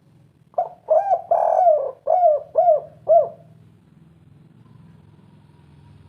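Spotted dove (tekukur) cooing one phrase of its 'kuk 3' song: two short coos, a longer drawn-out coo, then three quick coos, over about three seconds starting half a second in.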